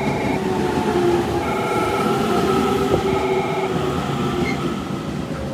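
A train pulling into the platform, with a steady whine that slowly falls in pitch over its running noise. Over it, the platform's train-approach indicator sounds a repeating two-tone electronic warning chime about every one and a half seconds, which stops partway through.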